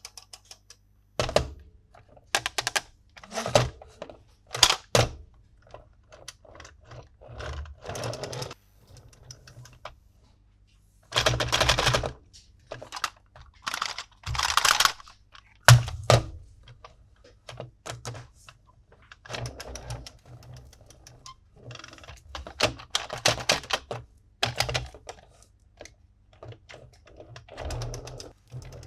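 Plastic toy pieces and packaging being handled: an irregular run of sharp clicks and knocks, with a few short rustling bursts.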